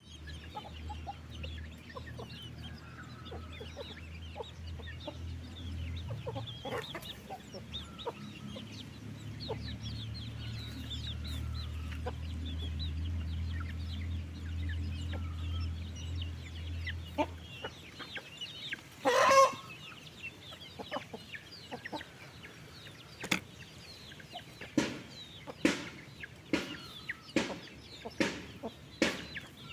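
A flock of chickens clucking and chirping, with one loud squawk about two-thirds of the way through. A low steady hum underneath stops suddenly a little past halfway, and sharp clicks come every second or so near the end.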